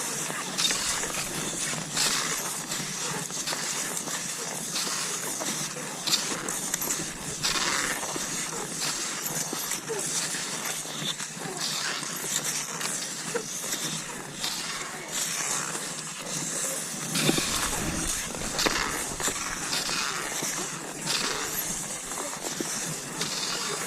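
Cross-country skis swishing and scraping over snow in stride, with crunching snow and frequent short clicks. A brief low rumble comes about seventeen seconds in.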